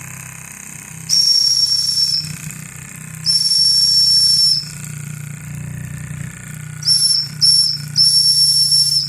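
Steam whistle on a home-built Polly model steam engine blowing five high-pitched blasts: two of about a second each, then two quick short toots and a final blast of about a second. The engine keeps running steadily underneath.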